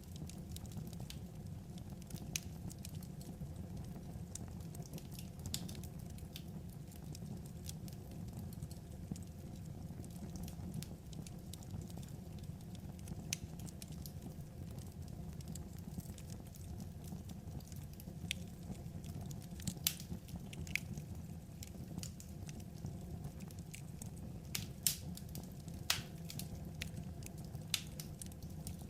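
Wood fire crackling: a steady low rush of burning logs with scattered sharp pops, several louder ones in the second half.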